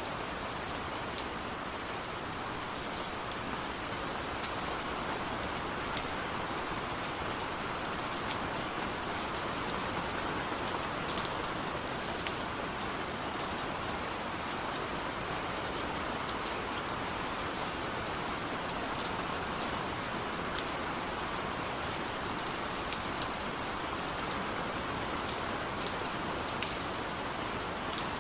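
Steady rain falling, a dense even hiss with scattered sharper drop ticks on top.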